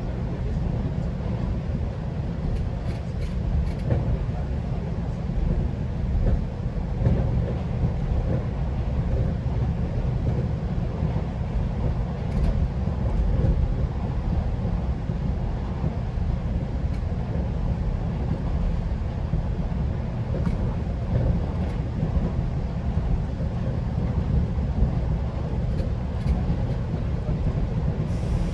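Steady low rumble of a GO Transit commuter train running between stations, heard from inside the coach, with a few faint clicks from the wheels and car.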